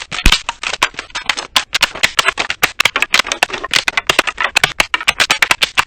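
Wood campfire crackling loudly, with rapid irregular pops and snaps.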